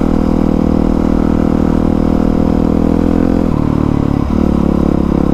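Honda CRF450R dirt bike's single-cylinder four-stroke engine running under steady throttle while riding. The pitch drops a little about three and a half seconds in, with a brief dip just after, then holds steady again.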